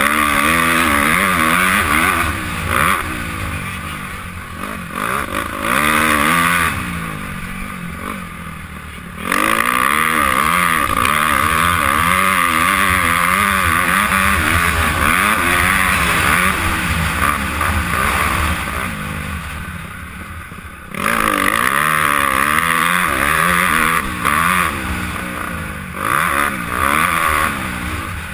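Honda CRF250R four-stroke single-cylinder motocross bike racing, heard from the rider's helmet. The throttle is opened and shut repeatedly, the engine revving up and down through gear changes, with one long full-throttle run in the middle.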